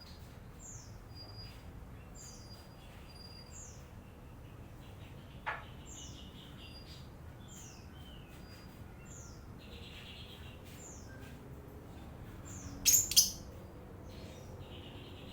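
Lovebird chattering: a steady run of short, high, falling chirps about once a second, with two loud shrill calls in quick succession near the end.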